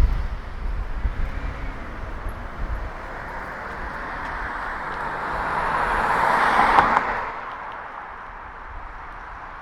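A car passing close by, its tyre and engine noise swelling over a few seconds to a peak about seven seconds in, then dropping away quickly. A low, uneven rumble fills the first few seconds.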